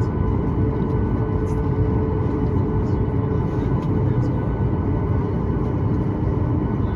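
Steady low rumble inside the cabin of a Boeing 737-9 MAX taxiing, its CFM LEAP-1B engines at idle, with a faint steady whine above it.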